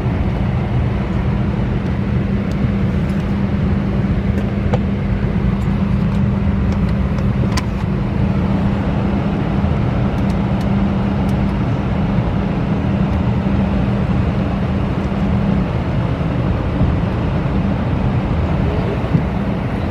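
Steady vehicle drone, even throughout, with a steady hum running under it that drops away about fifteen seconds in.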